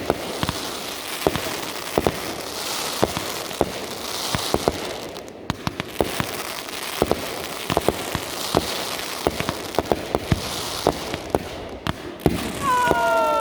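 Fireworks going off in a steady string of sharp bangs and pops over a continuous crackle. Near the end several whistling fireworks sound together, their pitch falling.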